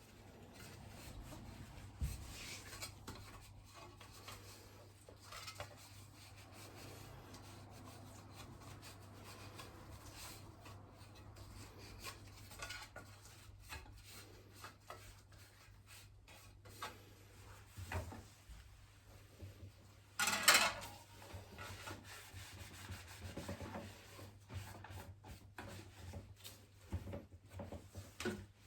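Soft, continuous rubbing of a cloth wiping down the plastic parts of a disassembled electric fan, with one brief louder scrape about two-thirds of the way through.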